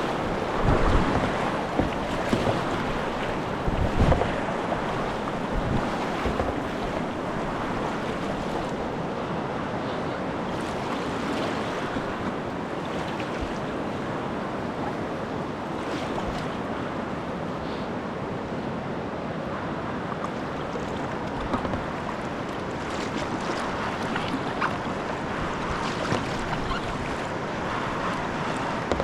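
River water rushing steadily around a kayak, with a few sharp knocks in the first several seconds.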